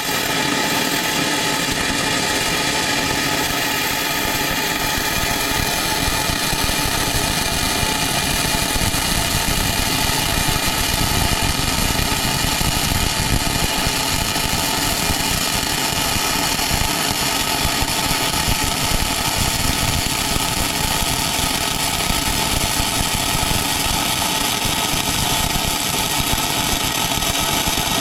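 Steady machine noise: a motor or power tool running continuously at an even pitch, with a rough, crackling low end.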